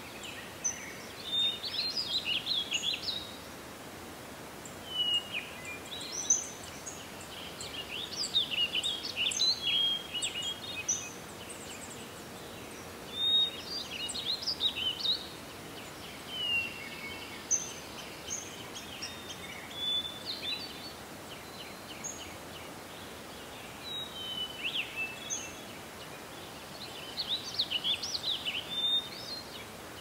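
Songbirds singing and chirping in bursts of quick, high, warbling notes that come and go every few seconds, over a steady outdoor background hiss.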